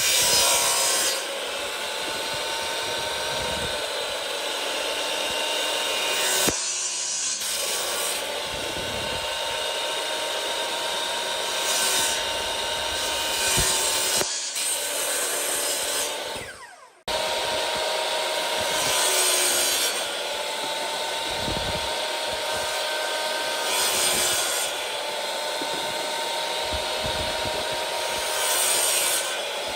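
Electric power tool running with a steady whine while working wood, a loud hissing cut swelling every few seconds as it makes repeated passes. The sound cuts out briefly twice just past the middle.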